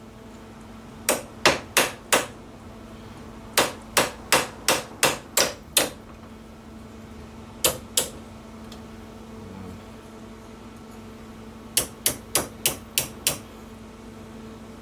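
A small hammer striking a steel patch panel over a panel-beating dolly, shaping a curve into the sheet metal. The blows come in quick runs of a few strikes with short pauses between the runs.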